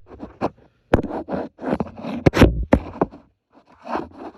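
Irregular clicks, knocks and scrapes of hands working a part loose, with the loudest knocks about a second in and around two and a half seconds in.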